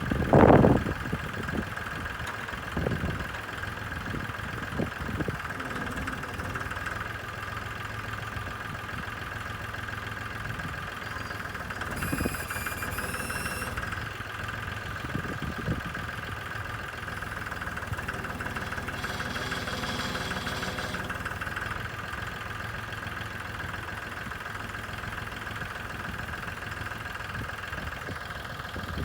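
Tractor engine running steadily at idle, with a few short loud knocks right at the start and a brief high-pitched sound about twelve seconds in.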